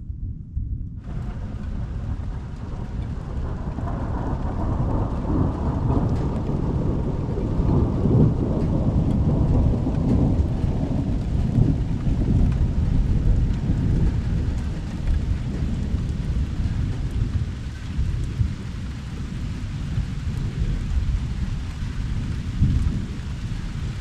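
Long rolling thunder rumbling over steady rain hiss. The rain hiss steps up suddenly about a second in, and the rumble builds to its loudest around the middle before easing to a lower rumble.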